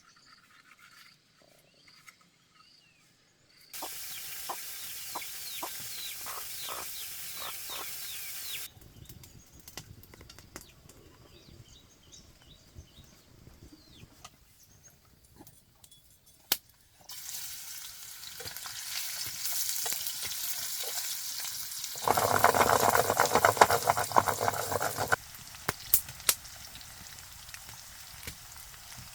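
Food frying in hot oil, sizzling, in separate stretches that start and stop abruptly: from about four seconds in to nine, then again from about seventeen seconds, loudest for a few seconds after twenty-two. Scattered clicks and knocks fall between the stretches.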